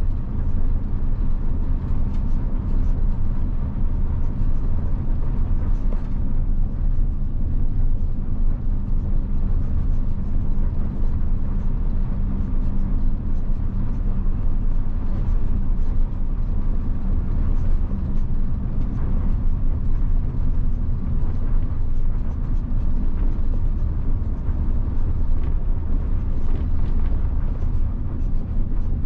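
Mitsubishi Fuso bus's 7.5-litre diesel engine running steadily under way, a continuous low rumble with road noise.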